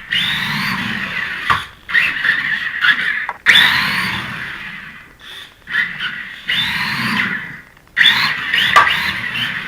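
Electric RC car's motor whining in repeated bursts of throttle, about six in a row, each starting suddenly and fading off.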